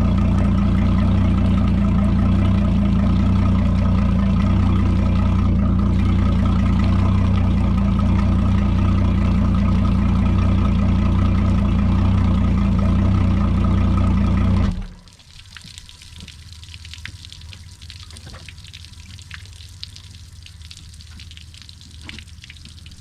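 Outboard motor idling steadily while being flushed with fresh water and salt remover through a hose attachment, then shutting off suddenly about two-thirds of the way through. After that, only the hose water spattering and trickling can be heard.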